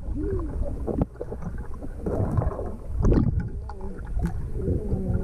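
Pool water splashing and sloshing close to the microphone, in irregular surges.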